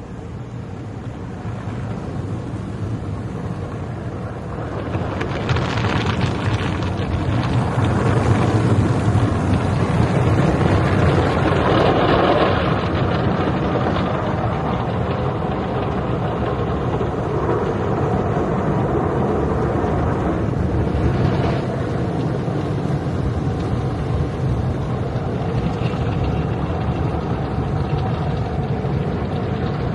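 Automatic tunnel car wash at work on a car going through it: a steady rush of water and machinery noise that swells about five seconds in and stays loud.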